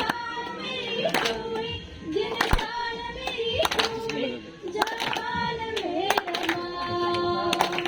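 Live singing of a Hindi patriotic song, with long held notes that waver in pitch, over a sharp beat struck about once every 1.2 seconds.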